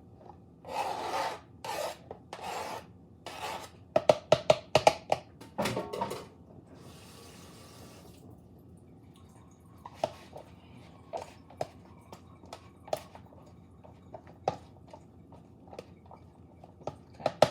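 Kitchen utensil sounds while hard-boiled eggs are added to chicken salad. A few scraping swishes come first, then a quick run of sharp clicks, then scattered light taps.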